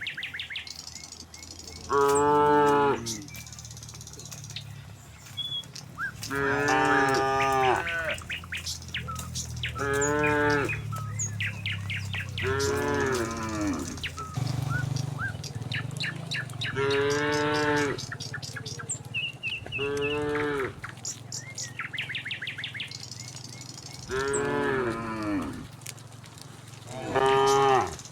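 A herd of cattle mooing again and again, about eight long calls of one to two seconds each, one after another.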